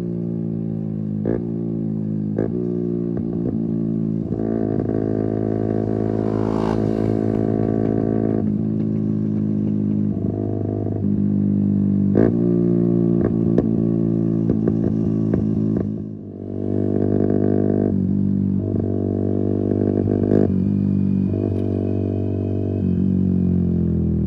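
Keeway RKF 125's single-cylinder engine through a Mivv exhaust with its dB-killer removed, pulling up through the gears while riding. The pitch climbs, drops at each shift and climbs again, with the throttle briefly closed about two-thirds of the way through.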